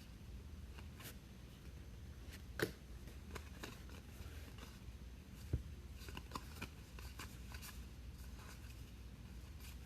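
Baseball trading cards being handled and flipped through by hand: soft, scattered ticks and slides of card stock, with two sharper taps and a quick run of small clicks after the middle, over a low steady hum.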